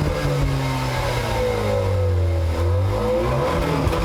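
Acura TLX A-Spec's engine and exhaust running under throttle, its note sinking slowly and then climbing again near the end.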